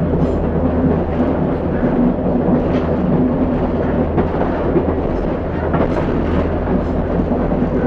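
Class 142 Pacer diesel railbus on the move: a steady low engine drone with dense wheel-on-rail rumble and a few light knocks.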